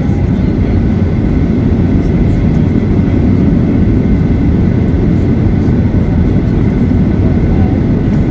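Boeing 737-800's CFM56 jet engines heard from inside the cabin: a loud, steady rumble with a faint high whine.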